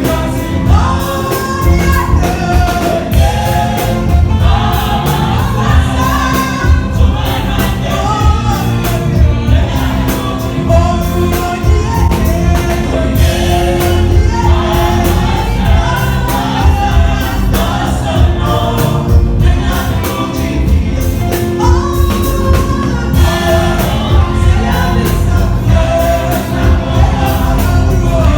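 Congregation singing a gospel praise song together, many voices over a steady drum beat.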